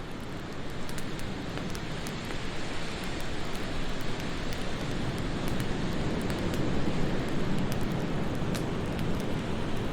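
Steady rushing wind that swells for a few seconds past the middle, with a few faint crackles from a wood fire.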